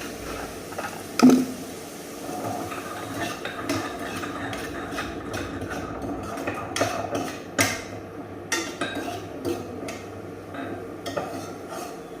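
A utensil stirring, scraping and knocking in a metal cooking pan while fried rice cooks. A loud ringing clang comes about a second in, then a run of sharp clinks and knocks.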